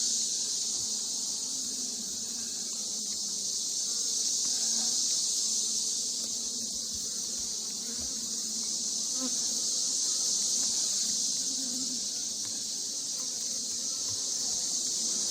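Honeybees humming around an open hive, over a steady high-pitched insect chirring that swells and fades gently.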